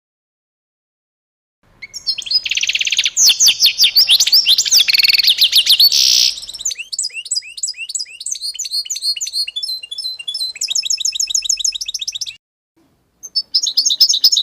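Small songbirds chirping and singing in fast, high-pitched trills and repeated notes, starting after about two seconds of silence and breaking off briefly near the end.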